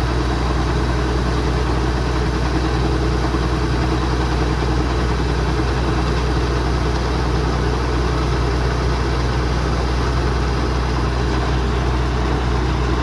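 Kubota DC-105X combine harvester's diesel engine and machinery running steadily, a constant low hum under an even mechanical noise.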